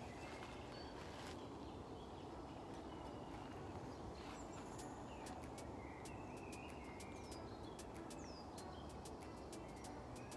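Wild birds calling in a forest: short chirps and a few high, quickly falling whistles from about four seconds in, over a steady low background hum of the woods, with scattered faint ticks.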